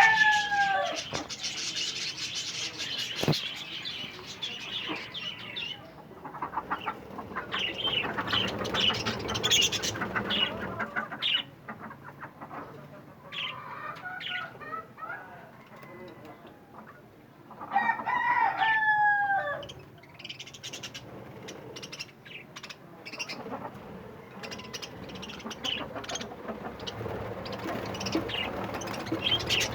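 A flock of budgerigars chattering and chirping continuously, with two louder, drawn-out calls that fall in pitch: one at the very start and one about two-thirds of the way through.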